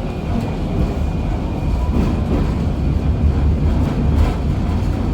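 KTM-23 (71-623-04.01) tram running along the track: a steady low rumble, with a couple of faint clicks from the wheels and track.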